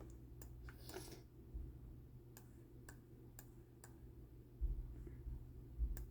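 Faint, scattered single clicks of a computer mouse, one every half second to a second, with a few low thumps about two-thirds of the way through and near the end.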